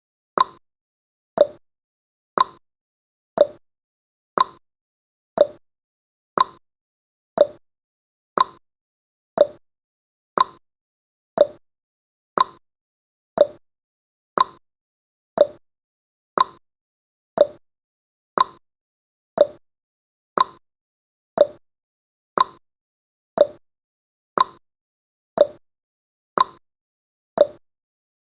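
Countdown timer's tick sound effect: one short, sharp tick every second, steady and evenly spaced.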